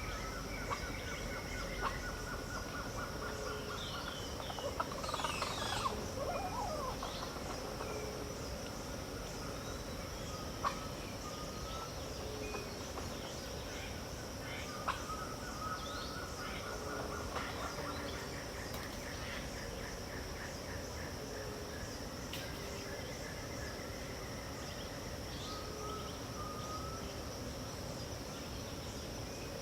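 Dawn chorus of several birds calling, chirping and trilling over a steady high-pitched insect drone. A low short note repeats every second or two throughout.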